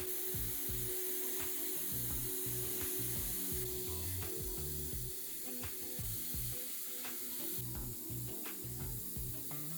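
Steady high hiss with scattered faint clicks, easing down twice, over background music with a bass line.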